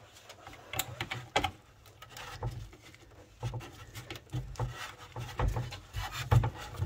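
Irregular clicks and small knocks of hand tools working on the car's metal, with two louder clicks about a second in, as he works at a rusted fastener.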